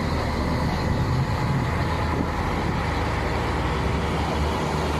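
Heavy diesel truck engine running steadily on a steep uphill grade, a low even drone with road noise.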